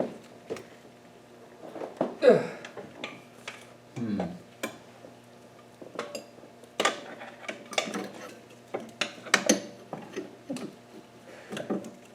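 Hand tools clinking and scraping against metal engine parts while working to free a PCV valve and hose, in irregular clicks and knocks, with two short squeaks falling in pitch about two and four seconds in, over a faint steady hum.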